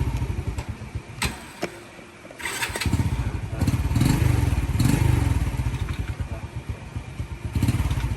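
Small motorbike engine running with a fast low pulsing. It dies away about a second in and starts up again about two and a half seconds in, then keeps running, rising again near the end.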